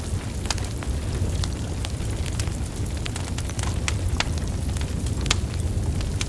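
Wood fire burning, the logs crackling with frequent irregular sharp pops over a steady low rumble.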